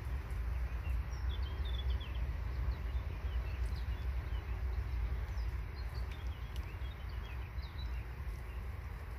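Faint small birds chirping in short high notes over a loud, fluctuating low outdoor rumble; the chirps thin out near the end.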